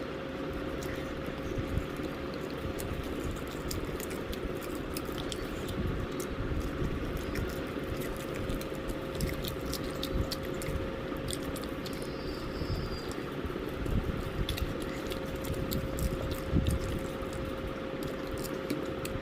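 A person chewing and biting into KFC fried chicken, with scattered crunches, crackles and squishy mouth sounds over a steady hum.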